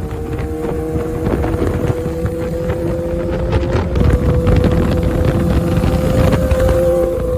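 Kawasaki ZX-6R inline-four engine running at steady cruising revs, holding an almost constant pitch, with wind buffeting the microphone.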